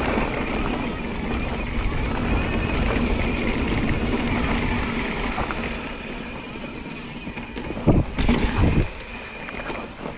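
Mountain bike riding down a rough dirt trail: wind buffeting the microphone and tyres rumbling over the ground, with a couple of sharp knocks from the bike about eight seconds in.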